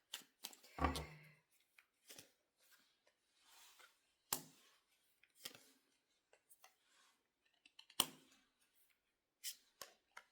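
Tarot cards being shuffled and laid out: scattered light flicks and snaps of card stock, with the sharpest snaps about four and eight seconds in.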